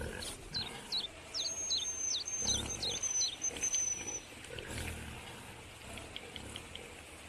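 Animal calls: a bird chirping in quick short falling notes with a thin high whistle held for about three seconds, and a larger animal giving two low grunting calls, the first about two and a half seconds in and the second near five seconds.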